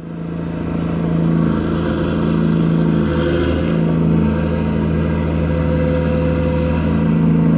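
Gut ship's engine machinery running with a steady, even drone during cargo handling, fading in over the first second.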